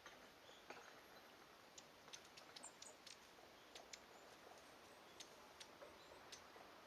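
Faint, high, very short call notes scattered irregularly over a quiet hiss, typical of long-tailed tits' thin contact calls.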